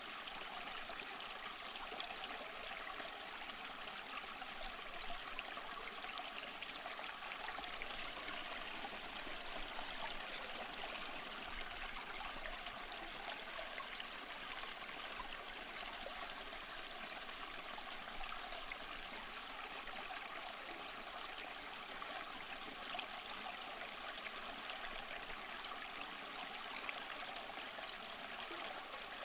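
Waterfall: a steady, even rush of falling water, mostly hiss-like with little low rumble, unchanging throughout.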